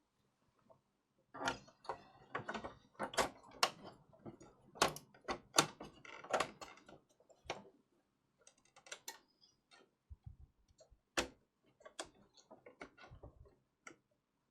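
Irregular clicks, taps and small knocks of hands and tools working on a PlayStation 5 console's parts, thickest in the first half and sparser after.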